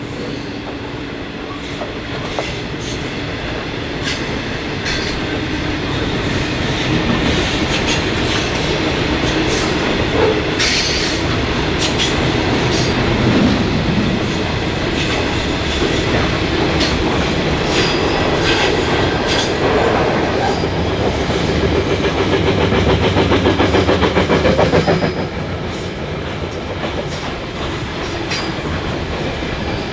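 Grain hopper wagons rolling past on steel rails: a steady rumble of wheels with rapid clicking over rail joints and some high wheel squeal. The sound drops a little about 25 seconds in as the end of the train nears.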